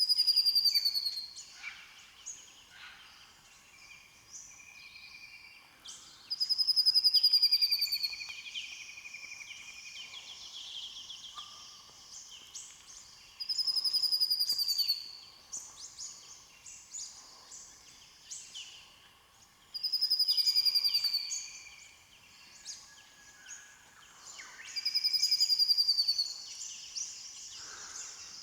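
Morning bird chorus: one bird repeats a loud, high, falling whistle five times, about every six seconds, while several other birds chirp and twitter more quietly between its calls.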